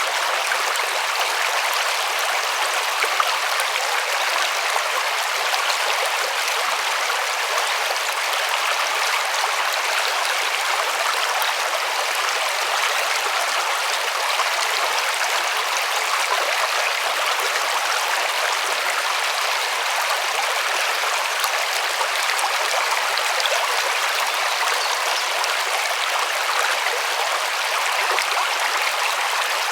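River water running over stones in a steady, even rush.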